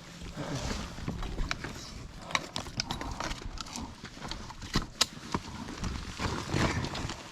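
A string of irregular knocks and clicks, the loudest a sharp pair about five seconds in, with rustling between.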